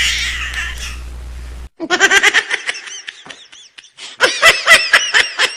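Laughter sound effects: one laugh cuts off suddenly a little under two seconds in, then a high-pitched, rapid "ha ha ha" laugh starts and grows louder near the end.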